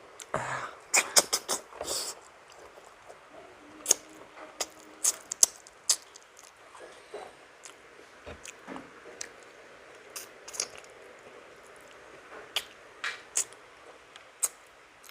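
Close-miked eating: a person chewing and biting soft stewed milkfish, with wet mouth smacks and irregular sharp clicks, busiest in the first two seconds.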